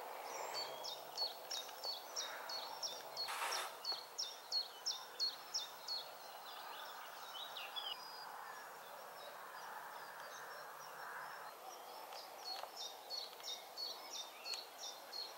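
A songbird repeating a rapid series of short, high, sharply falling notes, two to three a second. It pauses midway and starts again near the end, over a faint steady outdoor background hiss.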